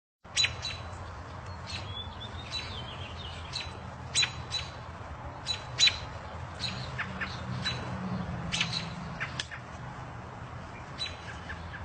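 A bird calling over and over in short, sharp squawks at irregular intervals, with a low steady hum underneath.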